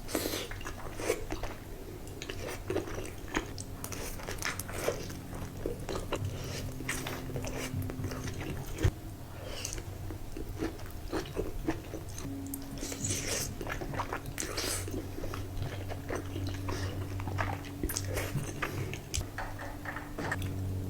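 Close-up eating sounds: a person biting into and chewing crunchy food, with irregular crunches and wet chewing clicks. A low, steady drone runs underneath.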